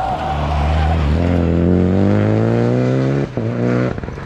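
Rally car engine accelerating hard, its pitch climbing steadily for about two seconds before a quick upshift, then climbing again and shifting once more near the end.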